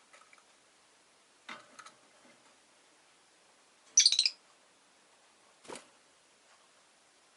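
Rosy-faced lovebird giving one short, loud burst of high, rapid chirps about four seconds in, with a few soft taps and clicks before and after it.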